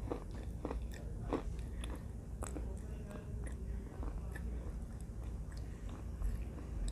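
Close-miked biting and chewing of a hard, dry piece of baked red clay: several sharp crunches in the first couple of seconds, then quieter chewing.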